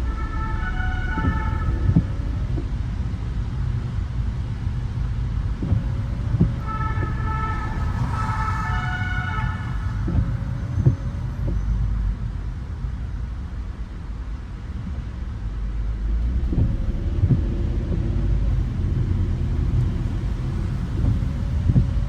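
Steady low rumble of a car driving on city streets, with a few short knocks. A two-tone emergency-vehicle siren alternates between two notes for a couple of seconds at the start and again about seven seconds in.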